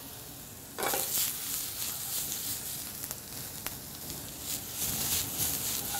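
Mushrooms and onions frying in butter in a hot sauté pan, starting up suddenly into a sizzle about a second in that keeps going, rising and falling as the pan is tossed, with a couple of light clicks.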